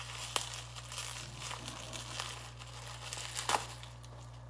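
Packaging crinkling and rustling as a wrapped item is handled and unwrapped, with a couple of sharper crackles, one about half a second in and a louder one near the end.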